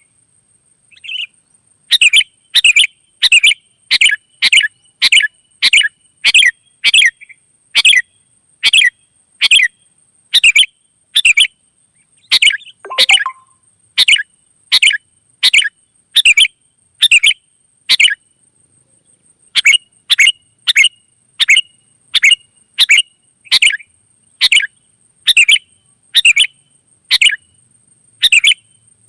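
Sooty-headed bulbul (kutilang) giving short, sharp calls over and over at a steady pace, about three every two seconds. There is a brief pause near the start and another about two-thirds of the way through.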